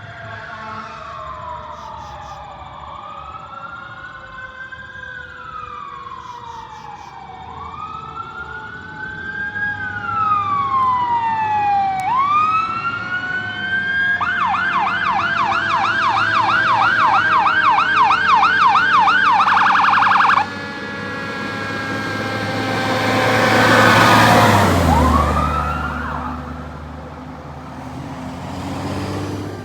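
Sirens of responding fire apparatus: a slow rising and falling wail that switches to a fast yelp about halfway through, which then cuts off suddenly. A vehicle then passes close, loudest around three quarters of the way in, its pitch dropping as it goes by, with one more siren rise near the end.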